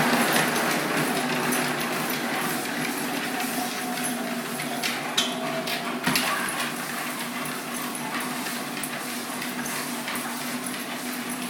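Treadmill motor and belt running with a steady hum and hiss that gradually gets quieter, with a few sharp clicks about five and six seconds in.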